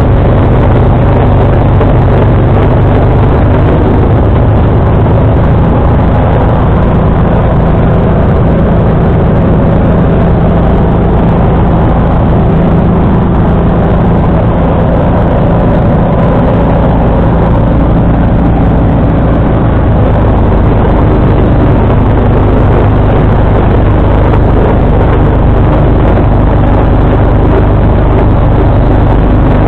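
John Deere 445 garden tractor's liquid-cooled Kawasaki V-twin engine running steadily, driving a 47-inch snowblower while clearing snow. The engine note shifts slightly about two-thirds of the way through.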